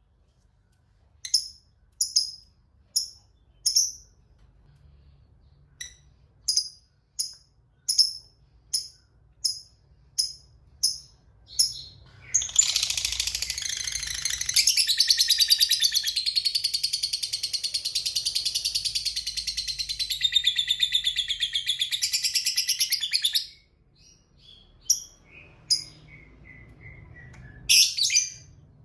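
A lovebird giving short, sharp single chirps at a steady pace, then breaking into one long, rapid chattering trill that lasts about eleven seconds before going back to chirps. This is the long chatter lovebird keepers call 'ngekek panjang'.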